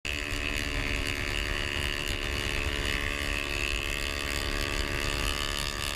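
Kawasaki Ninja 250's parallel-twin engine running steadily at cruising speed, heard from the rider's seat with wind rushing over the microphone.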